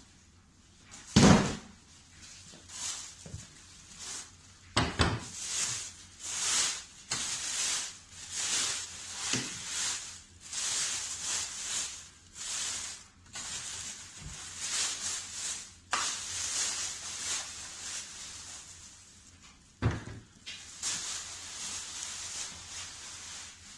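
Box packaging being handled and pulled open, rustling and scraping in repeated short bursts, with a few hard thumps, the loudest about a second in and others near five and twenty seconds.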